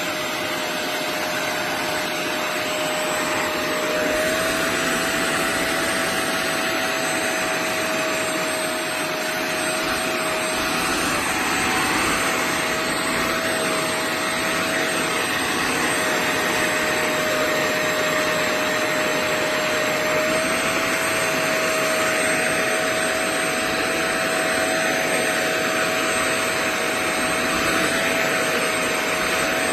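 450 W portable wet upholstery and carpet cleaner running steadily: a rushing suction noise with a motor whine that rises slightly in pitch about four seconds in and shifts a little again later.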